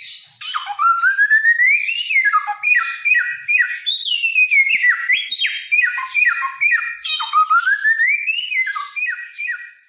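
Samyong songbird singing loudly in clear whistles. A long rising whistle glides up near the start, then comes a string of short down-slurred notes at about three a second. The same rising glide and down-slurred run repeats about seven seconds in.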